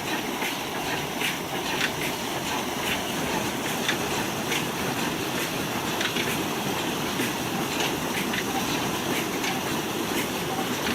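Old 35 HP Ruston Hornsby diesel engine running steadily, with a regular knock about every two-thirds of a second over its running noise.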